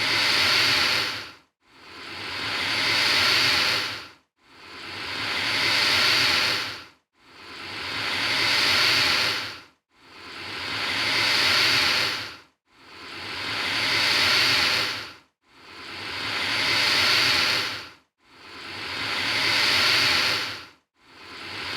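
Alligator hissing: a long breathy hiss about every three seconds, each swelling up and then dying away before the next, repeating evenly about eight times.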